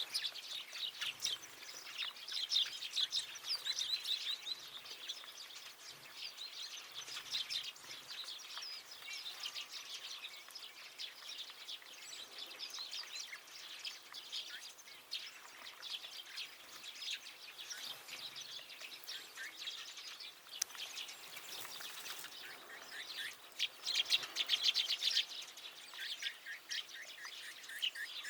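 A chorus of small songbirds at a feeder chirping and twittering without a break, with many short calls overlapping. The chirping is busiest about two to four seconds in and again around twenty-four seconds in.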